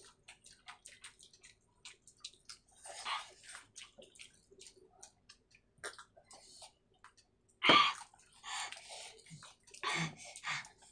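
Close-up wet eating sounds of fish with gravy rice: chewing and lip smacking, heard as a run of short wet clicks and squelches, with one louder squelch about three-quarters of the way through.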